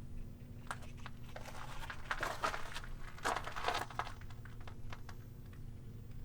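A few irregular crunching footsteps on a gravelly dirt trail, bunched between about one and four seconds in, over a steady low background hum.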